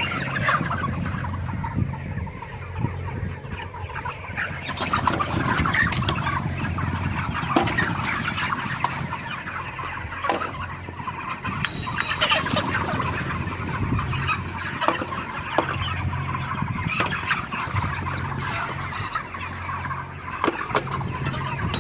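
A large flock of broiler chickens clucking and chattering continuously, with a steady low hum underneath and scattered sharp clicks.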